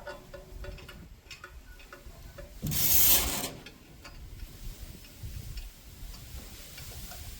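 Light clicks and taps of small parts being handled, then a loud rushing burst about a second long, a little under three seconds in.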